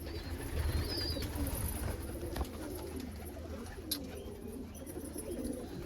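Domestic pigeons cooing, several low, wavering coos overlapping, with two brief sharp clicks partway through.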